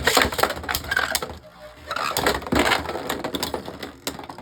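Beyblade Burst spinning tops clashing in a plastic stadium: rapid clicking and clattering hits, easing off about a second and a half in and clustering again about halfway through.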